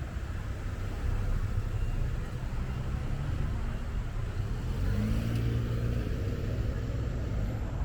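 Steady low rumble of wind on the microphone and tyres rolling while cycling along a trail. About five seconds in, a short rising hum comes through it.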